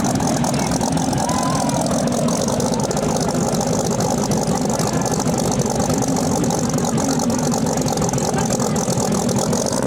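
Car engine idling steadily, a continuous low rumble with a fine rapid ticking through it.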